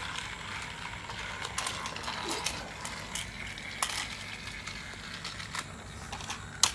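A Thomas toy train running along its plastic track: a steady small-motor whir from its gears, with scattered light plastic clicks.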